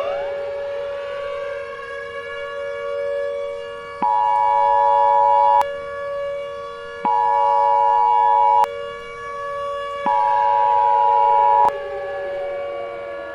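A civil-defense-style siren holds one steady pitch. Three times it is joined by the Emergency Alert System's two-tone attention signal, each burst about a second and a half long. Near the end the siren winds down, falling in pitch.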